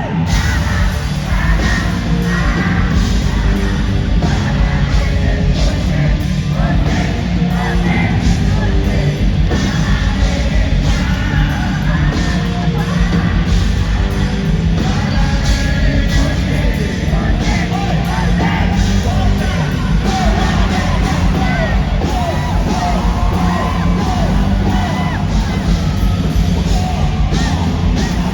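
Live rock band playing loudly in an arena, with a vocalist singing and the crowd yelling and singing along, heard through a phone or camera microphone.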